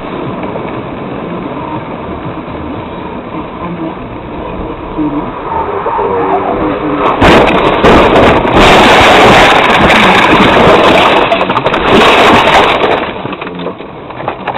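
Dashcam recording of a car on the road: steady engine and road noise. About seven seconds in, a much louder, harsh noise comes in and lasts about six seconds, then cuts off suddenly.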